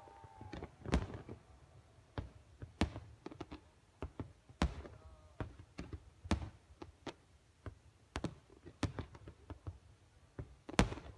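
Fireworks going off: scattered sharp bangs and pops at irregular intervals, with the loudest one near the end.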